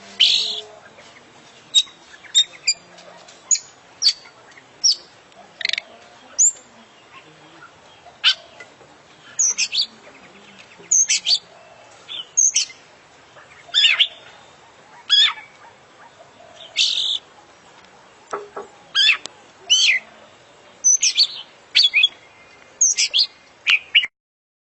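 Oriental magpie-robin (kacer) singing: a fast string of short, loud whistles and sharp chirps with brief gaps between them, a song filled with notes borrowed from other birds. The song cuts off abruptly near the end.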